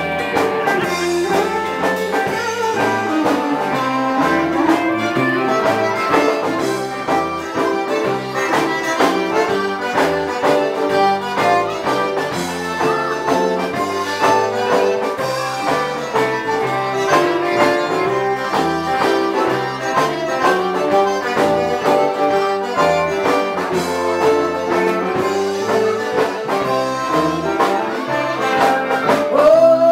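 Live Cajun band playing an instrumental passage with a steady beat.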